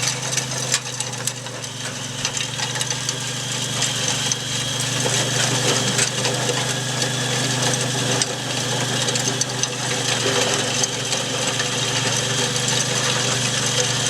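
Engine of a small walk-behind garden tractor running steadily, getting a little louder after about four seconds, with scattered light knocks and rattles.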